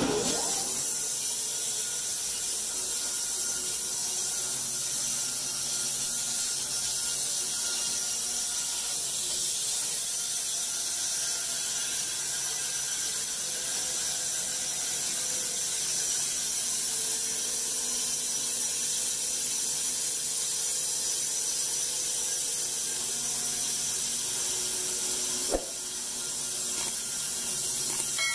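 Machinery running with a steady mechanical noise, cutting in suddenly at the start, with one sharp knock near the end.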